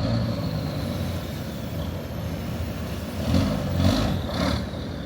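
Mercedes-Benz 2213 truck's diesel engine running steadily, with a low hum and a few brief louder swells about three to four and a half seconds in.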